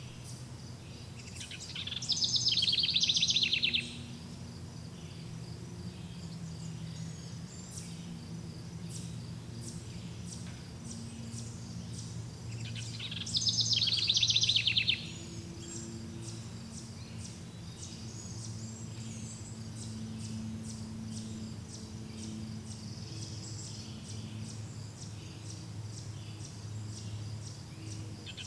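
Forest ambience: a songbird sings a loud, rapid trilling phrase about two seconds long, twice, once a second or two in and again about thirteen seconds in. Between the phrases run constant faint high chirps and insect-like ticking over a steady low hum.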